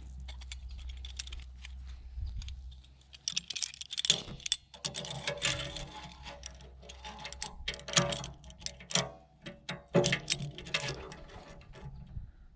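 Irregular metallic clinks and rattles, like steel pieces and tools being handled, with a steady low hum under the first few seconds.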